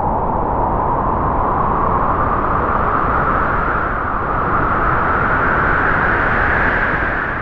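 Strong wind howling, a steady rush with a whistling howl that rises slowly in pitch.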